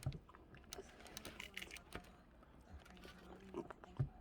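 Faint, scattered small clicks and taps from hands handling seafood shells and things on the table, with one brief low thump near the end.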